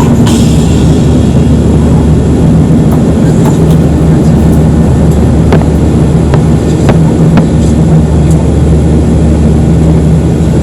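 Steady cabin noise of an airliner in flight: the drone of the jet engines and rushing air with a low hum, and a few faint clicks.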